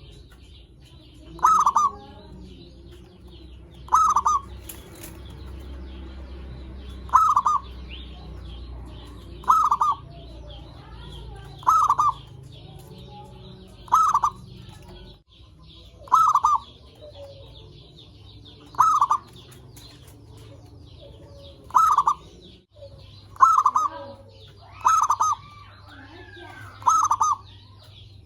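Zebra dove (perkutut) cooing: a short, loud phrase of rolling coos repeated about every two to three seconds, a dozen times over, with a faint continuous chatter of small birds higher up behind it.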